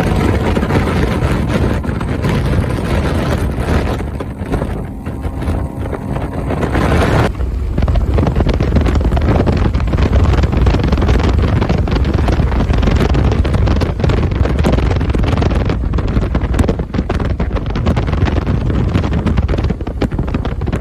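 Wind buffeting the microphone on a moving Kawasaki ZX6R sport bike, with the bike's inline-four engine running underneath. The wind rumble grows heavier about seven seconds in.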